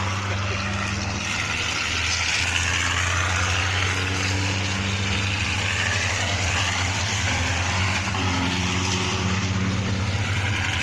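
Racing truck engines running on a circuit, a steady low drone with pitch sweeping up and down as the trucks rev and pass.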